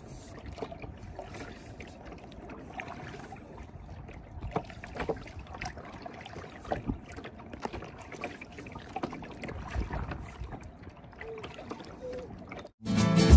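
Kayak paddling on open water: irregular paddle splashes and knocks over a steady wash of water. Plucked guitar music cuts in abruptly near the end.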